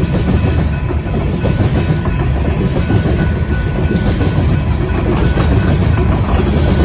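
BNSF coal train rolling past, a steady low rumble of wheels on rail.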